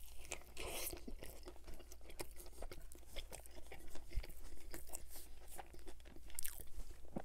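A person chewing a mouthful of burger, close to the microphone: a steady run of many small wet clicks from the mouth.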